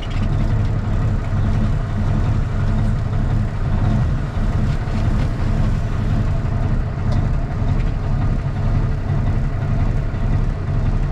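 Straight-piped Cummins ISX inline-six diesel in a Kenworth T800 running steadily, a loud, deep, even drone with no revving.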